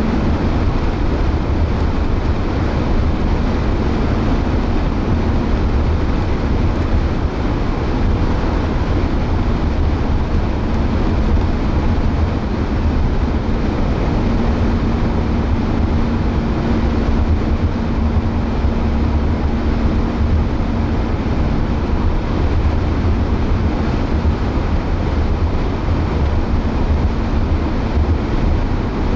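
Steady road noise of a car being driven: a constant low rumble of tyres and engine, with a faint steady hum joining partway through.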